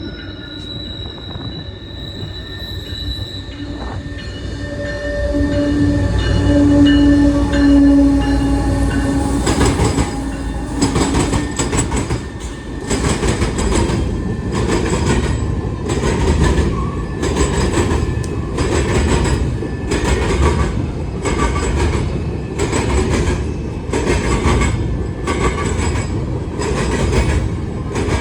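CSX grain train passing: the locomotives' diesel rumble and a thin high wheel squeal for the first dozen seconds, then the covered hopper cars rolling by with a steady clickety-clack of wheels over the rail joints, about one clack a second.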